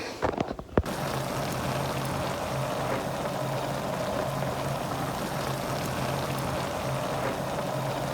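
A few clicks or knocks, then a steady rush of running water with a low hum under it.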